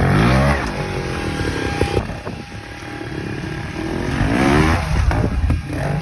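Vertigo Vertical R 250 two-stroke trials bike engine revving: a blip at the start falls away, then the revs rise again in a second burst about four seconds in. Scattered knocks run alongside it.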